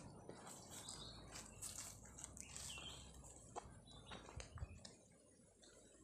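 Faint open-air ambience with scattered short bird chirps, and a soft low thump about four and a half seconds in.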